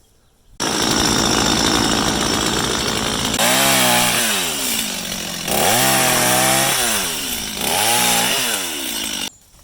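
Chainsaw engine running at high speed. Its pitch sags and climbs back three times as the throttle eases and reopens, and the sound starts and stops abruptly.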